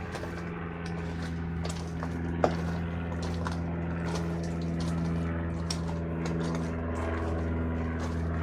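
A steady low engine drone with irregular clicks and knocks over it, one sharper knock about two and a half seconds in.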